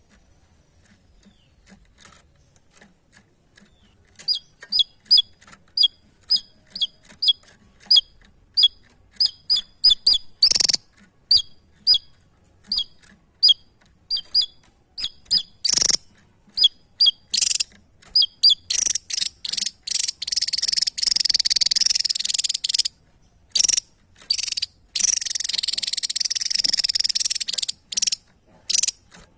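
A small songbird singing: sharp, high chirps repeated about twice a second, building in the last third into long, dense, buzzy warbling that breaks off suddenly several times.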